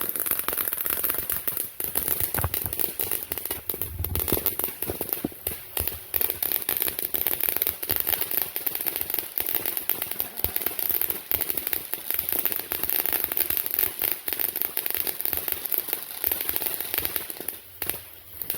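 Fireworks crackling: a long, dense run of rapid small pops and cracks over a steady hiss, thinning out near the end.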